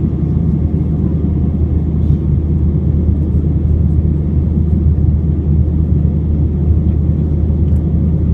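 Steady, loud low rumble of an Airbus A320's engines heard inside the passenger cabin.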